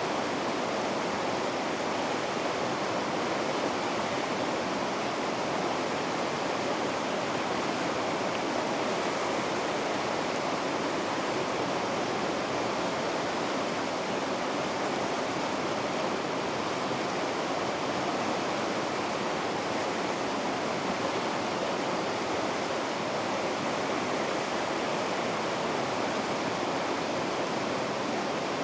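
River rapids rushing, a steady, even roar of water with no change.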